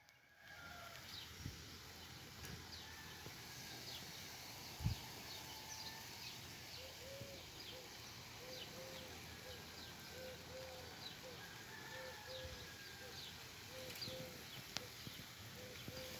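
Birds chirping: many short, high chirps. From about seven seconds in, a lower call of short notes repeats about twice a second. A single thump comes about five seconds in.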